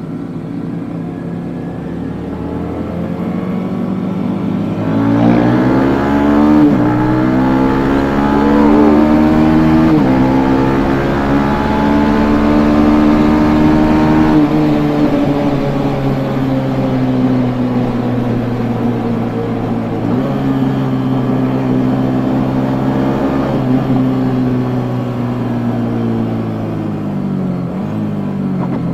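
Yamaha MX King 150's single-cylinder four-stroke engine on its stock exhaust, accelerating hard through the gears: the pitch climbs and drops back at each upshift, three times, then falls slowly as the bike eases off.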